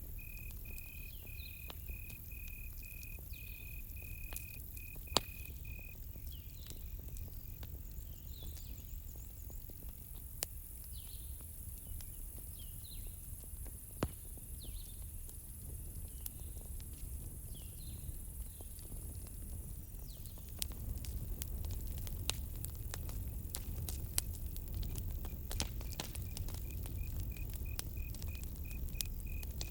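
Campfire crackling with scattered sharp pops over a low steady rumble, growing a little louder about two-thirds of the way in. A cricket chirps in quick even pulses at the start and again near the end. Short bird calls repeat every second or so through the first half.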